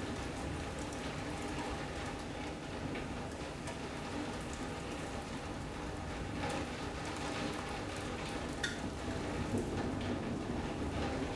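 Steady rain during a thunderstorm, heard from inside a sunroom as it falls on the roof and glass, with scattered sharper drop hits.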